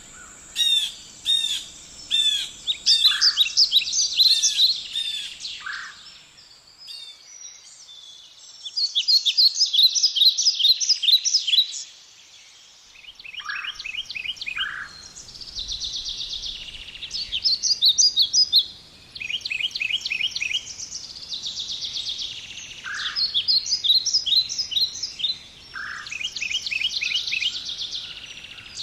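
Several wild songbirds singing: fast trilled phrases that repeat every few seconds, with short lower notes in between.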